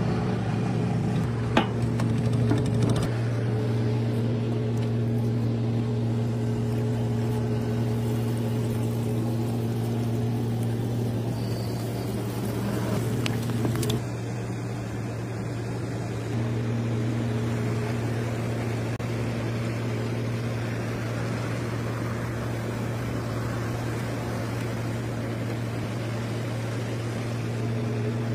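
Cooking oil pouring from a steel tin into a large iron kadai. Then fresh cluster beans fry in the hot oil, with a sizzle that grows louder in the second half, over a steady low hum.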